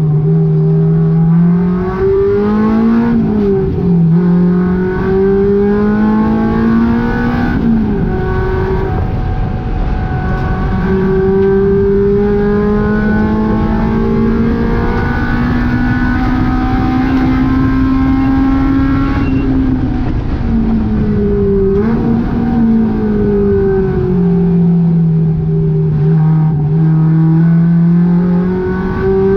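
Honda K20 four-cylinder engine in a track-driven Volkswagen GTI under hard acceleration, its note climbing through long pulls and dropping abruptly at the gear changes, with a longest climb in the middle followed by a sudden drop and quick blips.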